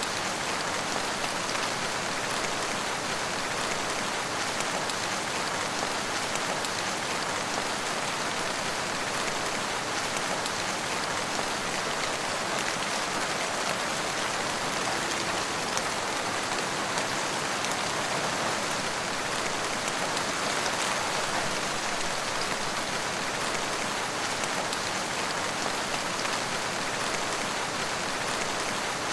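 Steady rain falling, a constant even hiss of many drops with no thunder or breaks.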